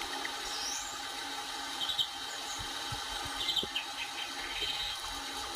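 Birds chirping now and then over a steady hum, with a few light clicks.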